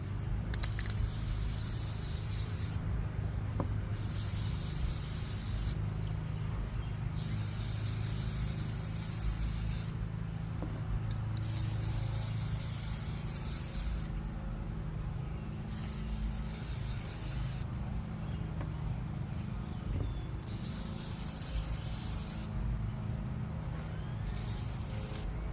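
Aerosol can of gold spray paint being sprayed in repeated hissing bursts, about seven in all, each lasting two or three seconds with short pauses between, over a steady low hum.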